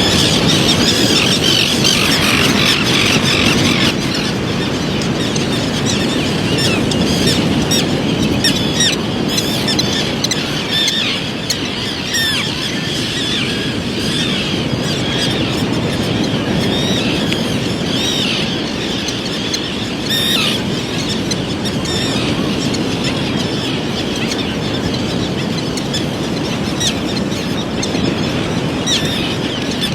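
A brood of baby birds peeping continuously, many short high calls overlapping, over a steady low background noise.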